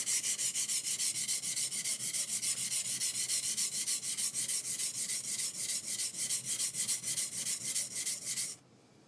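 Bevel of a high-speed-steel skiving knife rubbed back and forth on a wet whetstone, with fast, even scraping strokes of about five or six a second. The strokes stop about eight and a half seconds in.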